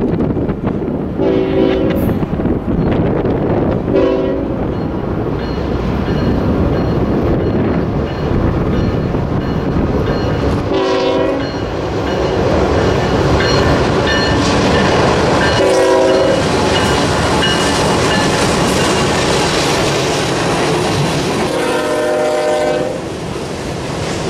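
CSX freight train led by a GE ET44AH diesel locomotive sounding its multi-note air horn five times as it approaches and passes: two short blasts, two longer ones, and a final blast of about a second and a half. Under the horn the locomotive and then the freight cars run by with a steady rumble and wheel clatter.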